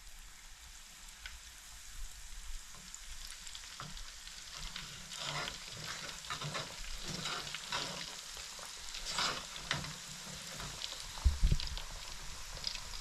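Fish fillets coated in seasoned corn flour fish fry sizzling and crackling in hot oil in a fryer. There are a couple of low thumps about eleven seconds in.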